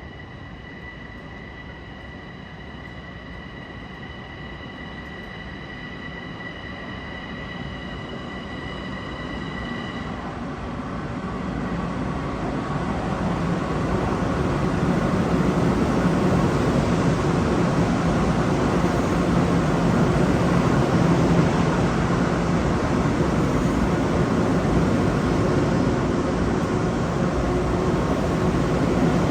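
Long Island Rail Road electric multiple-unit train arriving, its rumble growing louder over the first fifteen seconds or so and then running steady. A steady high-pitched whine sounds for about the first ten seconds and then stops.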